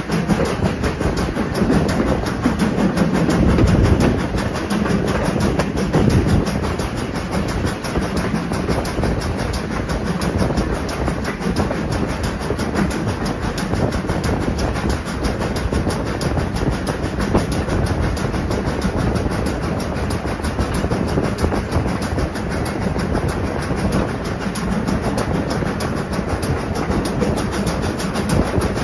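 Passenger train carriage running behind a steam locomotive, heard from an open carriage window: a steady rumble of wheels on the rails, a little louder in the first few seconds.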